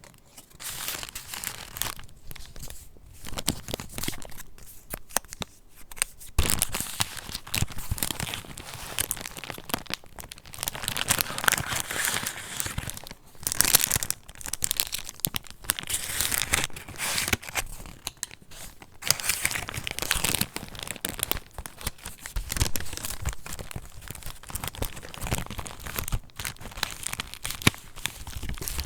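Paper pages of a handmade junk journal being turned and handled, with irregular crinkling rustles that come and go every second or so.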